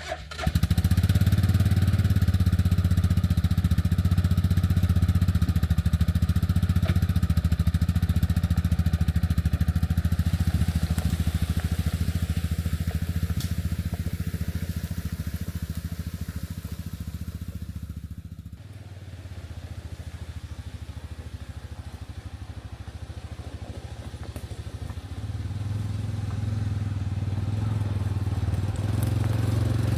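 A large engine running at a steady speed, easing off about 18 seconds in and building again over the last few seconds.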